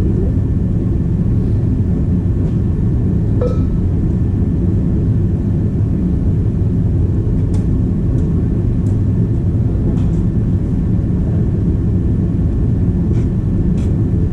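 Heavy equipment engine running steadily with a low rumble, with a few faint clicks over it.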